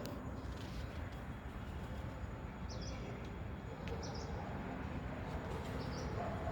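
Three short, high bird chirps, about two and a half, four and six seconds in, over a steady low outdoor rumble.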